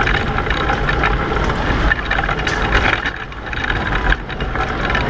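Racing pedal car rolling at speed, heard on board: a steady rumble of wheels with constant rattling and knocking from the car's frame.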